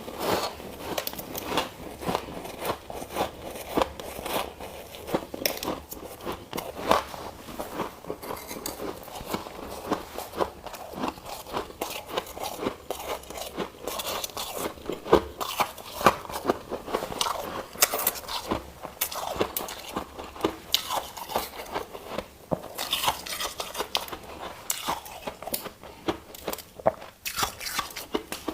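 Ice being chewed: a dense, irregular run of sharp crunches and cracks, with louder crunches near the end.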